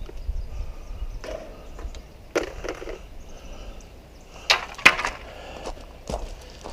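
Irregular knocks, clatters and scrapes from a bird feeder being handled and pried at while a trapped bird is freed. The two sharpest knocks, close together about four and a half to five seconds in, are the loudest.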